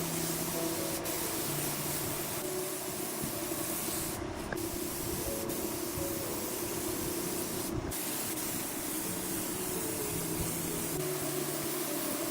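Spray gun hissing steadily as a finish is sprayed, with two brief breaks where the spray stops for a moment.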